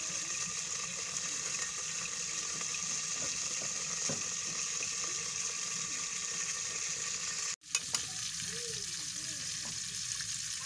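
Steady sizzling hiss from a steel pot cooking over a wood-fired clay stove. After a cut about seven and a half seconds in, a few sharp clicks of a knife cutting green chillies against a steel bowl.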